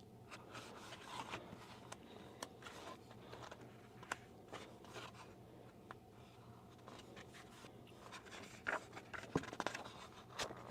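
Soft rustling and small clicks of the paper pages of a thick printed book being turned and handled, with a few louder page movements near the end.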